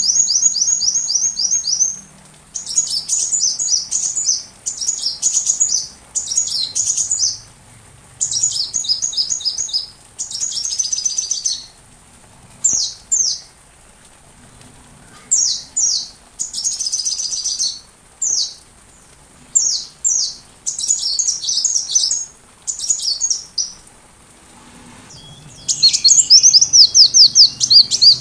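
Sunbird song: rapid, high-pitched chirping trills in short phrases of a second or two, separated by brief pauses, with a long, dense, loud burst near the end.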